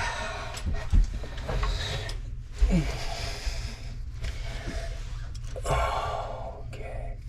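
A man's heavy breathing and exhaling while he works, with a few sharp knocks and clicks from parts being handled.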